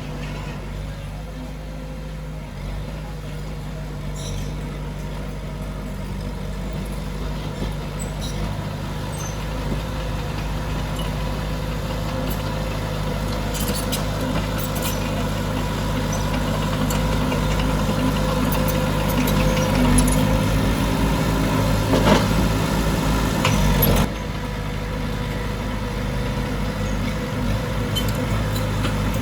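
Diesel engines of heavy earthmoving machinery running steadily, growing slowly louder, with scattered metallic clanks. A louder stretch cuts off suddenly about 24 seconds in.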